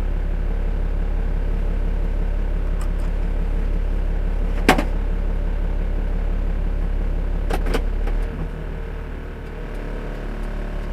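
A truck's engine runs steadily with a low drone. There is a sharp click about halfway through and a quick double click a few seconds later. The engine drone drops off noticeably about eight seconds in.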